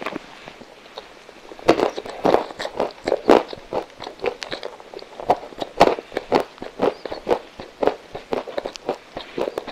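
Crunchy chewing of whole roasted hazelnuts: a run of sharp, irregular crunches about twice a second.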